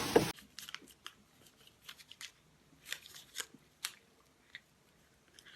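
A loud thump right at the start, then irregular short crunching clicks, like something being chewed.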